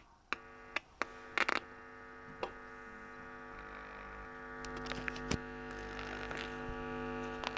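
A loudspeaker fed 50 Hz mains AC through a 12 V step-down transformer, giving a steady buzzy hum with many overtones: the sound of the 50 Hz mains frequency, the same hum that transformers make. Several sharp clicks and crackles come in the first two seconds and once more about five seconds in. The hum slowly grows louder.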